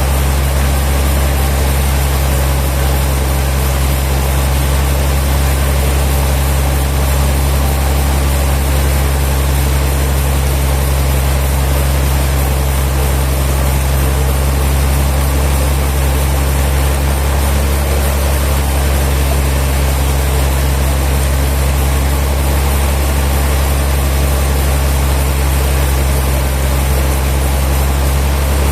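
An engine running steadily with a constant low hum and no change in speed or load.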